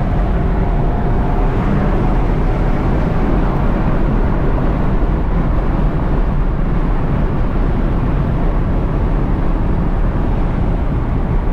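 Straight-piped Lexus SC430's 4.3-litre V8, running an X-pipe with no mufflers, droning steadily at a cruise. The exhaust is loud and low and holds an even pitch throughout.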